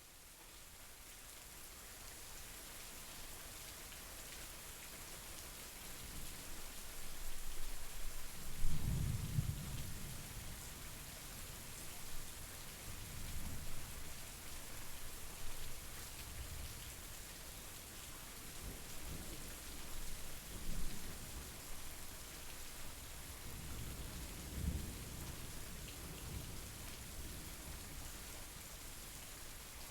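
Steady rainfall, fading in at the start, with several low rolls of thunder; the loudest roll comes about nine seconds in, with smaller ones spread through the rest.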